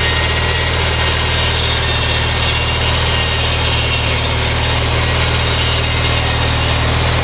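Homemade sawmill built from lawnmower parts running, its small lawnmower engine holding a steady, even speed.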